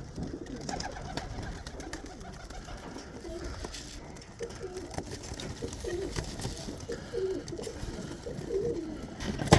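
Domestic pigeons cooing repeatedly at close range, short low calls one after another, with a sharp knock near the end.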